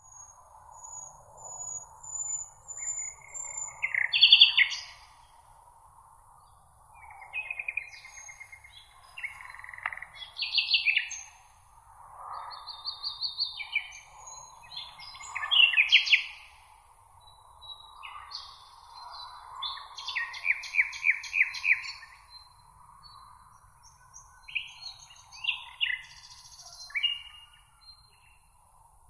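Several songbirds singing, with short overlapping phrases, chirps and quick trills of differing pitch coming one after another, over a steady high hiss.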